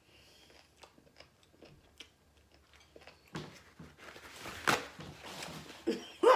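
Close-up chewing and crunching of a pickle with whipped cream: soft wet clicks at first, then louder crunching bites from about three seconds in, the loudest about a second later.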